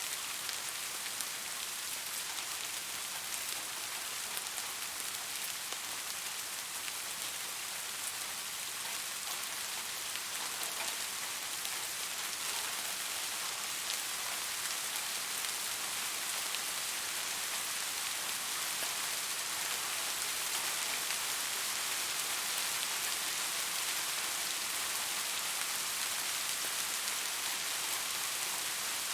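Steady rain falling, a dense even hiss of drops with fine scattered patter on a surface, growing slightly louder toward the end.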